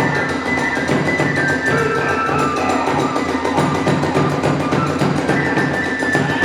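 Hiroshima kagura hayashi: a high bamboo flute melody over fast, steady taiko drumming and clashing hand cymbals.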